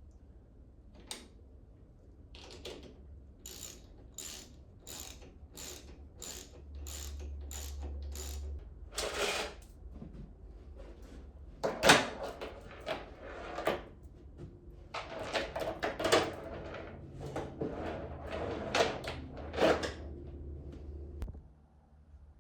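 Hand tools working on a bicycle's brake parts: a run of evenly spaced mechanical clicks, about one and a half a second, like a ratchet, followed by louder irregular metal knocks and clatter.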